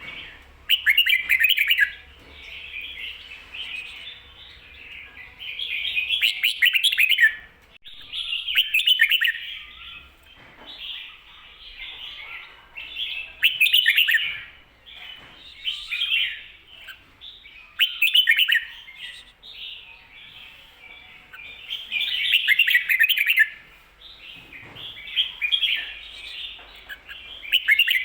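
Red-whiskered bulbul singing the doubled 'kho-ta-ra' song: short, bright warbled phrases repeated every two to four seconds.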